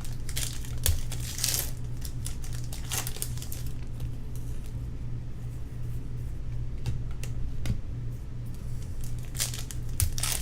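Foil trading-card pack wrappers crinkling and tearing in short, irregular bursts as packs are ripped open and handled, over a steady low hum.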